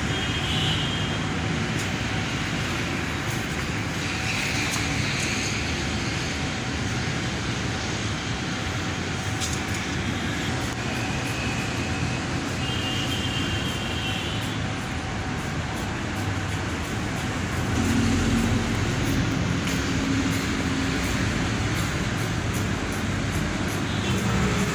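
Steady mechanical running noise with a faint constant hum and a few brief high chirps.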